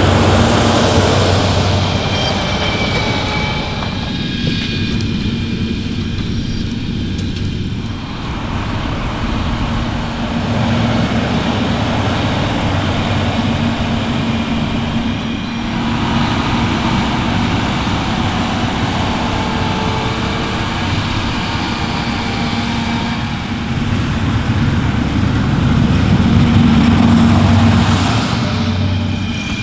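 Diesel engines of farm machinery such as tractors and harvesters running hard at work: a steady low engine drone under loud mechanical noise. The sound changes character several times, as from one machine to another.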